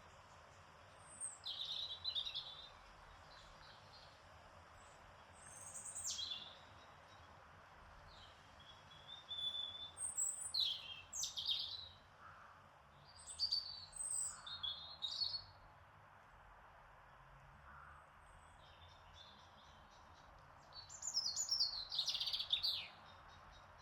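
Small songbirds singing in short separate phrases of high chirps and trills, over a steady faint hiss of garden ambience.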